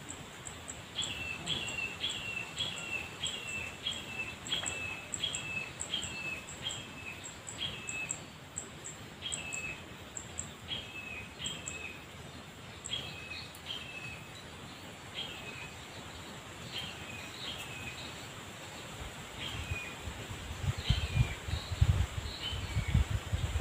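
A bird repeating a short falling call, about twice a second at first and then more sparsely, with faint rapid high ticking above it in the first half. Low rumbling thumps come in near the end and are the loudest sound.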